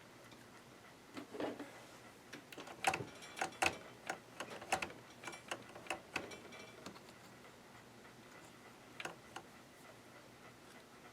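Irregular small clicks and taps of hands handling the sewing machine's parts, about a dozen in the first seven seconds and two more near the end.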